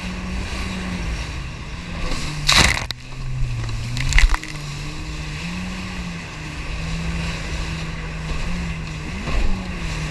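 Personal watercraft engine running under way, its hum wavering up and down in pitch as the throttle changes, over steady water and wind noise, with a few loud splashing thumps about two and a half seconds in, about four seconds in and near the end.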